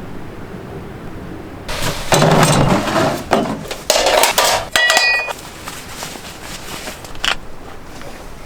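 Metal cookware being handled: a run of clattering knocks and clinks, with a brief metallic ring near the middle, after a steady low hiss.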